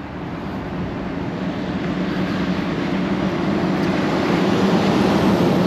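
A motor vehicle approaching on a nearby road: a steady engine hum under tyre and road noise that grows gradually louder, peaking near the end.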